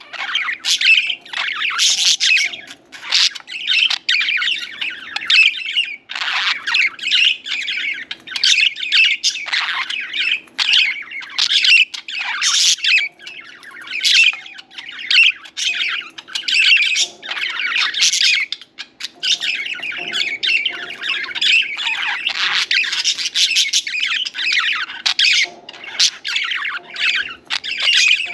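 Several budgerigars chattering and warbling nonstop, a dense tangle of chirps and squawks.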